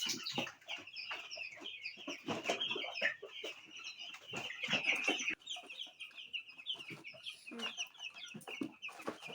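A flock of 11-day-old chicks peeping continuously, many short high chirps overlapping, with scattered knocks and scuffles among them.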